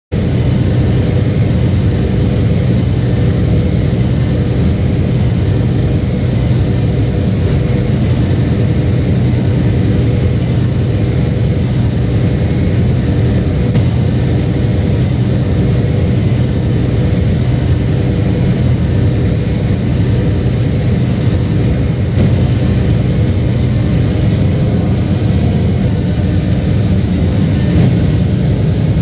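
Fendt 1050 Vario tractor's big six-cylinder diesel engine running steadily at constant revs, with a deep, even drone.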